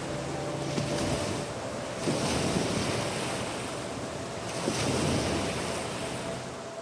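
Rushing, splashing water that swells twice, with wind buffeting the microphone.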